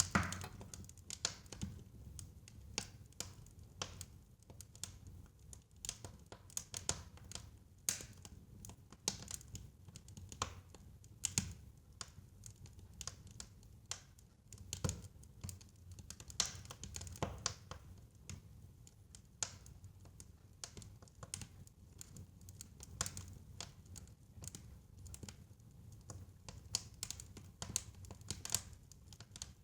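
Fire crackling in a fireplace: irregular sharp pops and snaps, several a second, over a low steady rumble of the flames.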